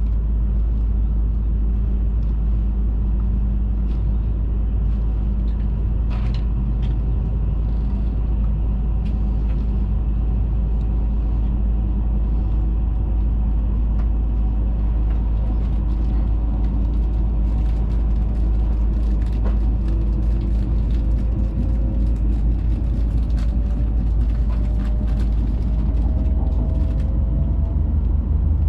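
Steady rumble of an E5-series Hayabusa Shinkansen running at speed, heard inside the passenger cabin, with light clicks and a faint whine rising in pitch over the last several seconds.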